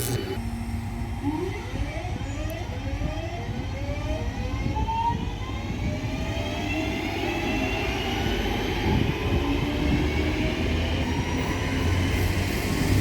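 Passenger train accelerating: the traction motors' whine rises steadily in pitch over a rumble of wheels on rail as the train picks up speed.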